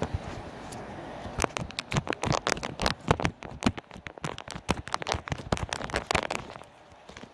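Homemade slime being squeezed and poked by hand, making a quick run of sticky clicks and pops. The clicks start about a second and a half in and stop about a second before the end.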